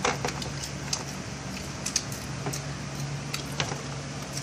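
Light, scattered crunches and clicks of someone chewing popcorn close to a phone's microphone, over a steady low hum.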